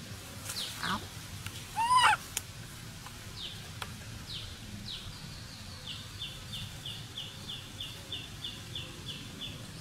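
Bird calls: two sharp chirping calls in the first two seconds, the louder one about two seconds in, then a bird repeating short, high, down-slurred notes about three times a second.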